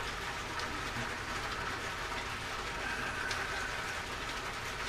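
Steady low hum and hiss of background noise, with a few faint ticks and a brief faint whine about three seconds in.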